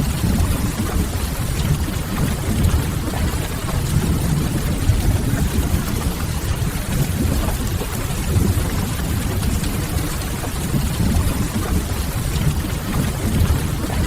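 Steady rain on a window over a low rumble, with the soft crackle of a wood fire.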